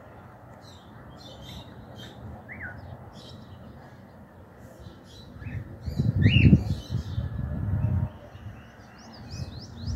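Birds chirping: a few short rising whistled notes, then a quick run of high chirps near the end. A low rumble swells about six seconds in and fades out about two seconds later.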